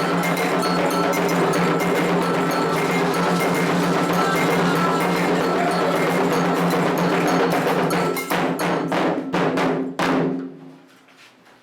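Candomblé ritual percussion: atabaque hand drums with a ringing metal bell play a dense, fast rhythm. About eight seconds in it breaks into a few separate closing strokes, ending with a final hit, and the music stops.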